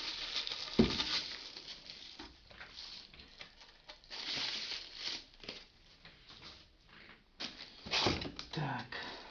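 Plastic packaging rustling as vacuum cleaner parts are unwrapped and handled, with a sharp knock about a second in and a cluster of louder knocks and rustles near the end.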